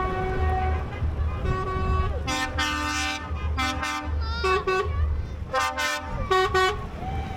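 Truck horns sounding in a string of blasts, short toots and about one-second holds, over the low rumble of passing engines.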